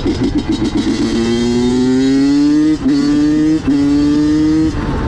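Honda CR85 85cc two-stroke single-cylinder engine pulling hard under acceleration, its pitch climbing in each gear, with two quick upshifts from 4th to 6th about halfway through. The throttle rolls off near the end.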